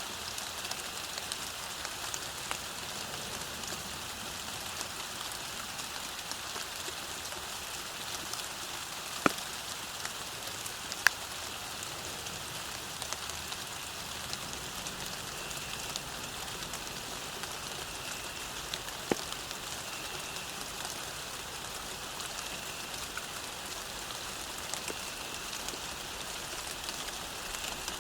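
Steady rain falling on a path, a constant hiss full of small drop ticks, with three louder single drops or drips about nine, eleven and nineteen seconds in.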